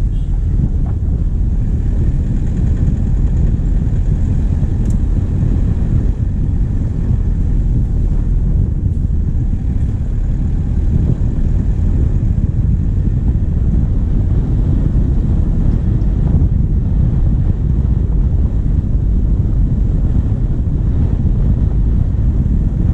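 Diesel vehicle engine running steadily while driving, as a loud, even low rumble mixed with wind buffeting a bonnet-mounted camera microphone.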